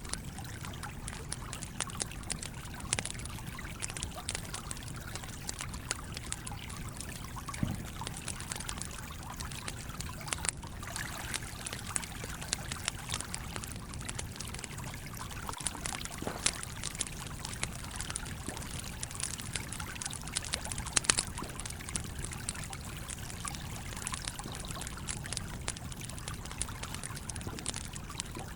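A campfire crackling with irregular sharp pops, a few louder than the rest, over the steady rush of a flowing stream.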